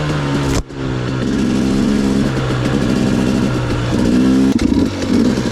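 Off-road vehicle engine running while riding, its pitch rising and falling with the throttle. The sound cuts out sharply for a moment just after the start.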